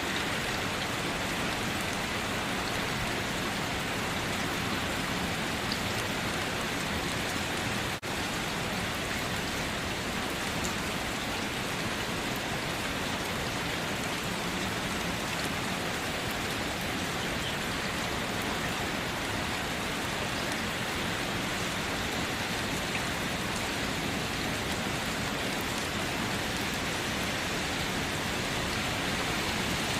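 Steady, even rain, a continuous hiss of drops with no change in strength, broken by one momentary dropout about eight seconds in.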